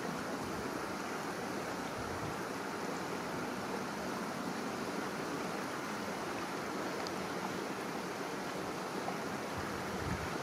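Steady rush of river water flowing, an even hiss with no distinct events. A brief low gust of wind on the microphone comes near the end.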